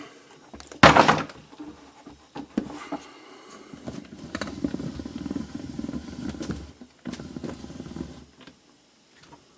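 Plastic casing parts of a Kärcher K5 pressure washer being fitted together by hand: a loud knock about a second in, then scattered clicks and a few seconds of scraping and rubbing.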